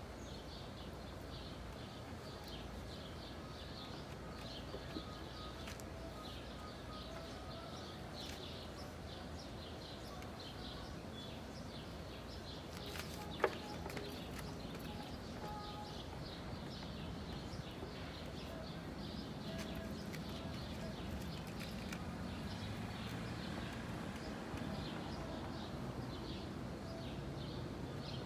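Outdoor background with small birds chirping over and over, and one sharp click about halfway through.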